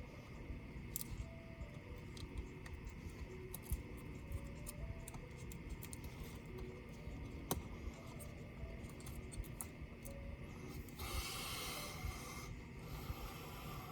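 Small parts and tools being handled while a laptop is taken apart: scattered light clicks and taps, with a scraping, rustling sound lasting about a second and a half near the end.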